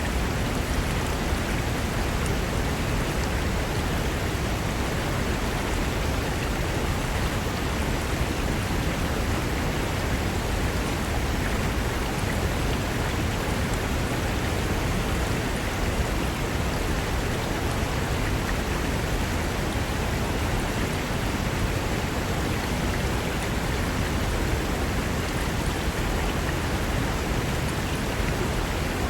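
Mountain river rushing over rocks: a steady, even wash of water noise with no breaks or separate sounds.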